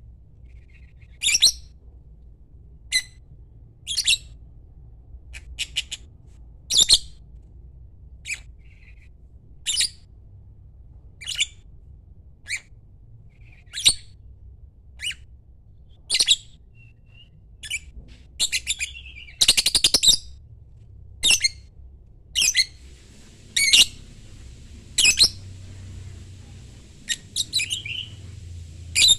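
Lovebird giving short, high-pitched chirping calls about once a second, with a quick run of calls about two-thirds of the way in.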